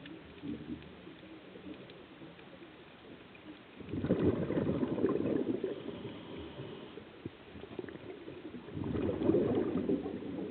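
A scuba diver's exhaled breath bubbling out of the regulator underwater: two bursts of gurgling bubbles, the first about four seconds in and the second about five seconds later, each lasting two to three seconds.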